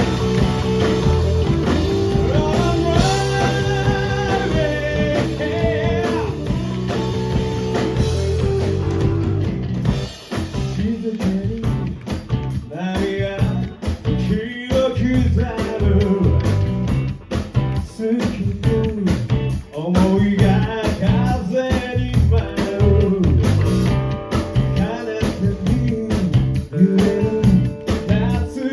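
Live rock band playing loudly: electric guitar, bass and drums, with held chords for the first part and a singing voice over the band after that.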